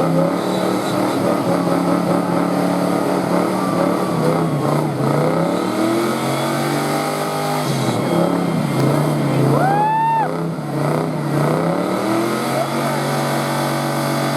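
Car engine revving hard during a burnout, its pitch dropping and climbing several times, with a short high squeal about ten seconds in; the engine settles to a steadier note near the end.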